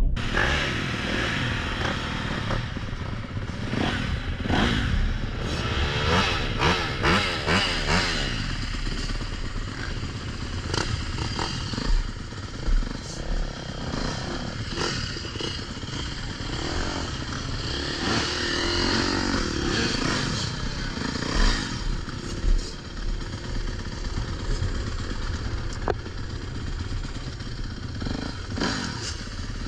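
Dirt bike engines running and revving, rising and falling in pitch, with scattered clatter and knocks.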